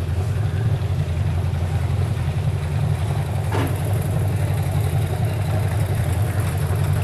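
An engine running steadily at idle, a constant low hum, with one short sharp knock about three and a half seconds in.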